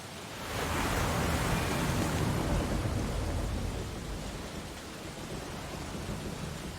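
An ocean wave breaking: a rush of surf swells up about half a second in, crashes for a couple of seconds, then fades back into a steady wash.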